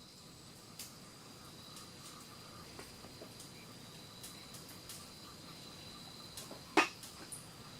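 Insects trilling steadily at a high pitch, with a few faint small clicks and one sharp click near the end.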